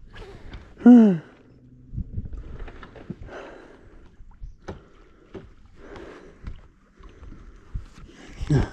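Handling noise: scattered light knocks and rustling, with a short exclaimed "oh" about a second in.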